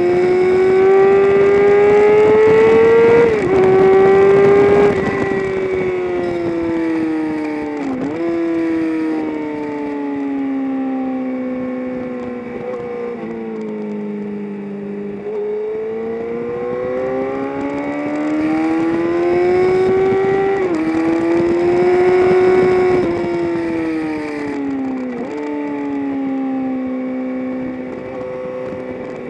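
Engine of a vehicle lapping a race track, heard on board: its pitch climbs under acceleration, drops suddenly at gear changes a little after 3 s and again about 21 s in, and falls away while slowing for corners, with quick dips at shifts about 8 s and 25 s in.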